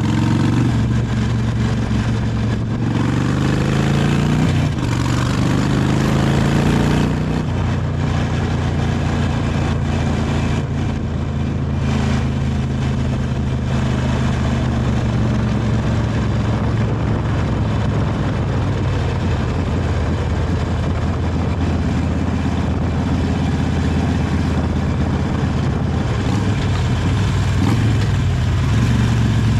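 Harley-Davidson 883 Iron's air-cooled V-twin running through its original exhaust while riding. Its note rises as the bike accelerates over the first several seconds, drops at a gear change, then settles into a steady cruise.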